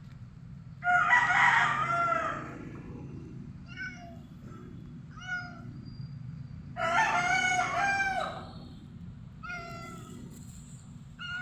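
A cat meowing: two long, drawn-out meows, one about a second in and one past the middle, with shorter meows between them and near the end.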